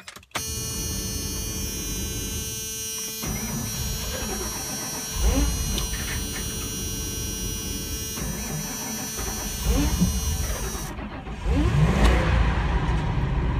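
Fuel-injected Ford E250 van engine being cranked by its starter for about ten seconds, a long, hard start in freezing cold. The starter's whine cuts off near the end as the engine catches and runs with a louder, lower rumble.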